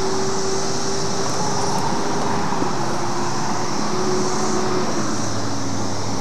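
Steady chorus of 17-year periodical cicadas (Brood XIII), a continuous high buzzing drone that does not let up, with a faint low hum underneath.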